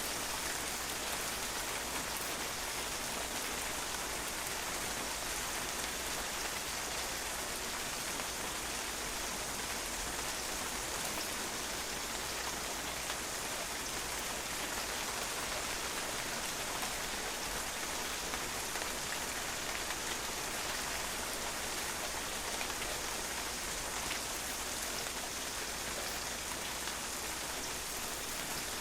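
Steady rain, drops pattering on a patio, an even hiss of many small drop impacts.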